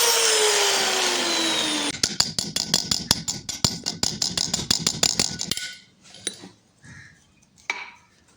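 A power tool spinning down, its whirring pitch falling, until about two seconds in. Then a fast, even run of sharp ticks, about seven a second, lasts some three and a half seconds, followed by a few faint knocks.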